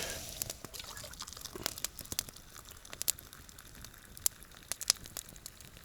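Wood campfire crackling: irregular sharp snaps and pops, a few each second, over a faint hiss.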